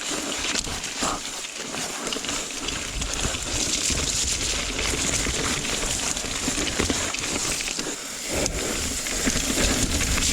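Mountain bike riding over a wet, rough dirt trail: tyres hissing and crackling on the ground with steady rattling and knocking of the bike over roots and rocks.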